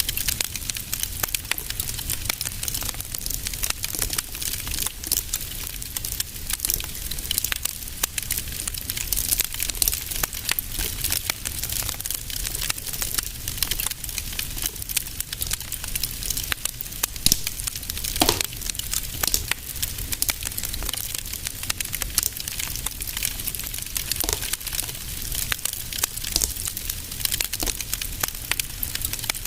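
Wood fire crackling steadily, with a dense run of small snaps and pops over a low rumble of flames. One louder pop comes about two-thirds of the way through.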